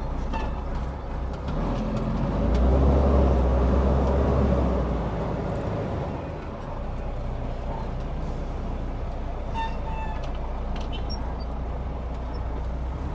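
Detroit Diesel 12.7-litre inline-six of a loaded dump truck running on the road, heard from inside the cab. It swells louder from about two to five seconds in, then settles back to a steady run.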